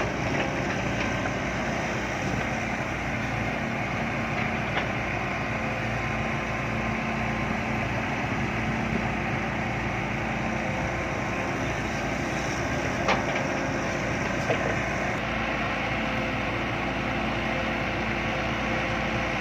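Truck engine running steadily, with a few short clicks or knocks over it.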